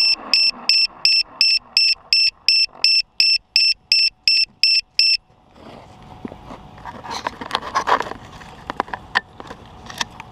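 An octocopter's electronic beeper sounding a rapid run of short, high beeps, about three or four a second, over the faint whir of its motors winding down. The beeps cut off suddenly about halfway through, followed by scattered light clicks and knocks.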